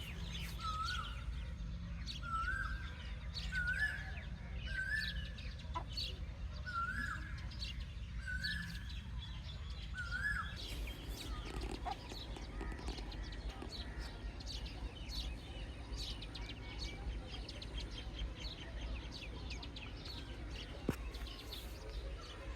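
Chickens calling, with baby chicks peeping. For about the first ten seconds a short rising call repeats roughly once a second, then many quick, high peeps overlap, over a steady low hum.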